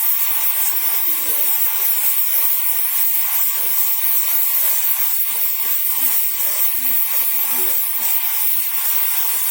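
Oxy-fuel flame cutting torch burning with a steady hiss while it preheats the steel plate before the cut.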